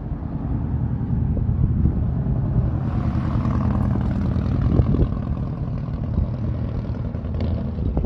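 Heavy equipment's diesel engines running, louder from about three seconds in, with a few sharp knocks.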